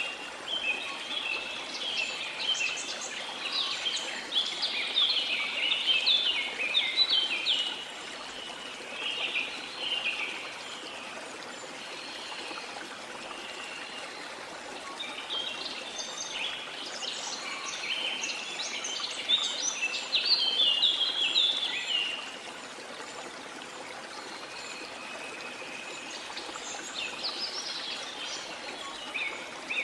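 Small songbirds singing in rapid, twittering chirps, in two long bouts and another starting near the end, over a steady wash of sea water.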